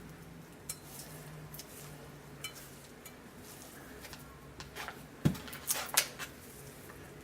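Kitchen utensils clinking and knocking against a pot or dish: a few scattered light clicks, then a cluster of louder knocks about five to six seconds in, over a faint steady hum.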